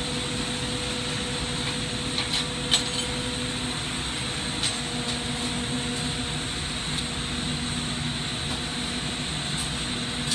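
Steady hum and hiss of a glassblowing hot shop, its torches and ventilation running, broken by a few light clinks of glass about two and a half seconds in and again near five seconds.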